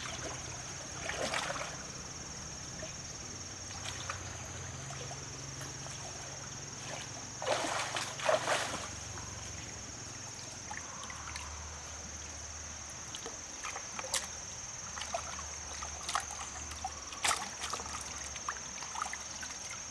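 Water splashing and sloshing in several bursts, the biggest about halfway through, with smaller splashes and drips around it, over a steady high-pitched whine.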